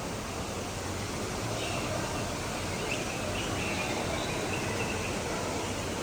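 Steady rushing background noise of an indoor rainforest exhibit, with a few faint short bird chirps through the middle.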